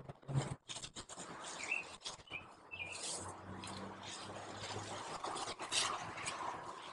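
Small birds chirping, a few short chirps, over a faint steady outdoor hiss, with a few soft clicks near the start.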